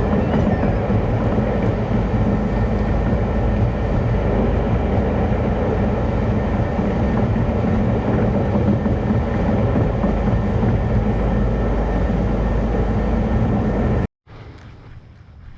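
Vehicle driving at steady speed: a continuous low rumble with road noise, even throughout.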